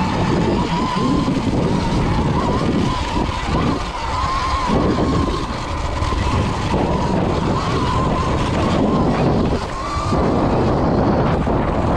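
Electric dirt bike's motor whining while riding a trail, its pitch rising and falling with the throttle, over rough noise from wind and the ride itself.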